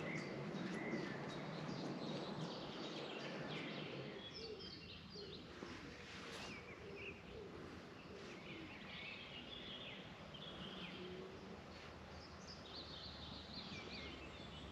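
Small songbirds chirping and warbling in short, high phrases, several of them throughout and busiest near the end, over a faint steady outdoor background noise.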